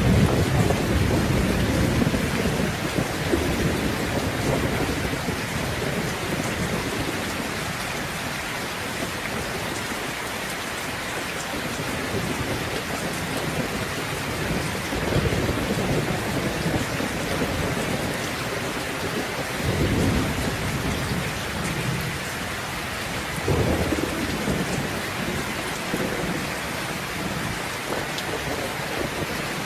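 Steady heavy rain with thunder rumbling: a loud low roll at the start that fades over a few seconds, then further rumbles about 15, 20 and 23 seconds in.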